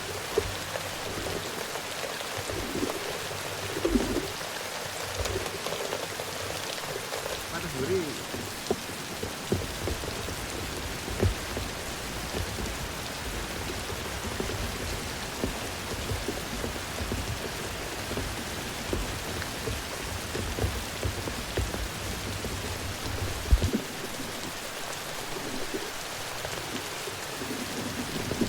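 Steady rain falling in forest, with occasional sharp drops striking close by. A low rumble runs through the middle stretch.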